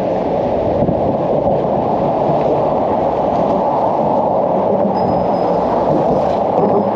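Wind buffeting the action camera's microphone while cycling: a steady, loud low rumble with no distinct events.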